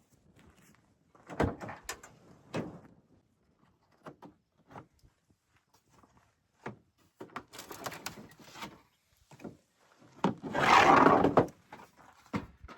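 Camping gear being handled and set out: scattered knocks and clunks. About ten seconds in comes a louder noisy rustle or scrape lasting about a second.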